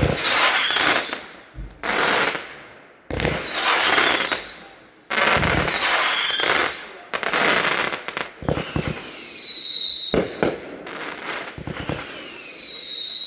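Aerial fireworks firing: loud booming breaks with crackling tails about every two seconds. Later come two falling whistles, each sliding down in pitch over a second or so.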